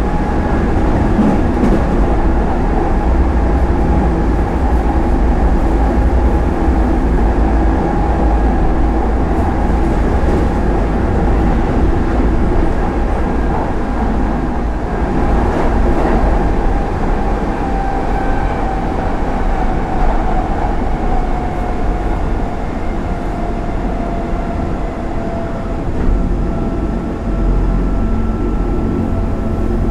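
Cabin noise inside a moving Hanshin Line express train: a steady low rumble of wheels on rail, with a whine from the electric traction motors. The whine slowly drops in pitch over the second half.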